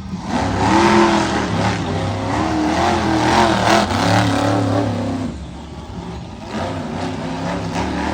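Monster truck engine revving hard, its pitch rising and falling repeatedly, then easing off to a lower level about five seconds in.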